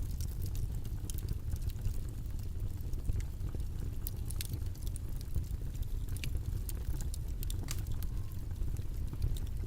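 Steady low background noise with many small, irregular crackles and clicks scattered through it.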